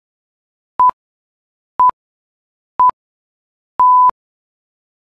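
Quiz countdown timer beeping once a second: three short, clean, single-pitched electronic beeps, then a longer final beep about four seconds in that marks the count running out.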